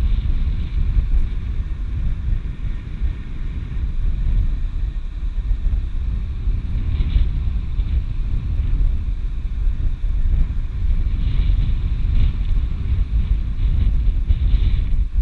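Strong wind buffeting the microphone, a gusty low rumble, with a fainter hiss rising and falling now and then.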